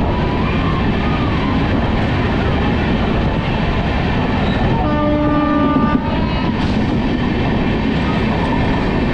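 Passenger train running through a rail tunnel, heard from the coach doorway: a loud, steady rumble of wheels on the rails. About five seconds in, the train's horn sounds once for about a second.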